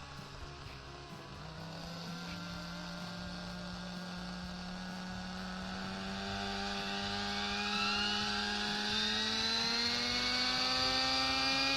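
Kyosho nitro R/C helicopter's glow-fuel engine running and slowly rising in pitch as it spools up, growing steadily louder over about ten seconds.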